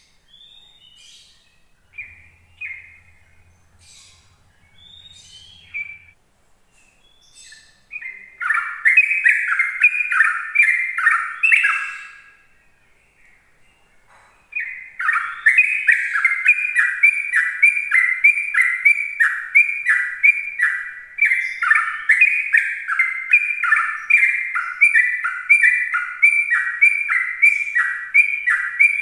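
Sooty-headed bulbul singing. It gives a few scattered single calls, then about eight seconds in a fast run of repeated down-slurred notes. After a short pause, a long unbroken rapid run starts about halfway through and continues: the continuous 'ropel' song that bird keepers use as a lure to set other bulbuls singing.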